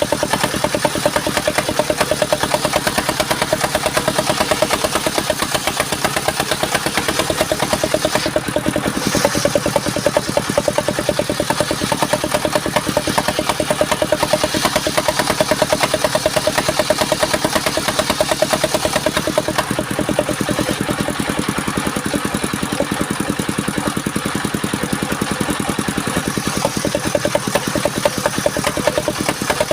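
Engine of a powered wood saw running steadily at a constant pitch, with a fast, even firing rhythm.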